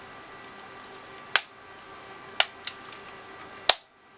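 Plastic case halves of a TI-84 Plus calculator clicking as they are pressed back together. There are four sharp clicks, the last one the loudest, over a faint steady hum.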